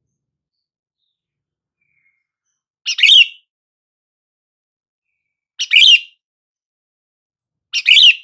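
Sooty-headed bulbul calling: three short, bubbly call phrases about two and a half seconds apart, each led by a brief note. The calls are separated by dead silence, as in a looped lure recording.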